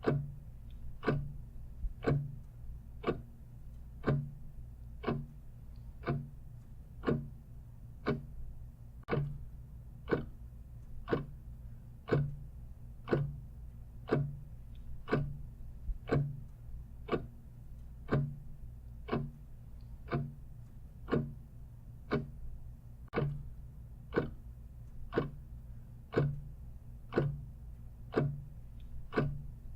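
Clock ticking steadily, about one tick a second, each tick a sharp click with a low thud, over a faint steady low hum.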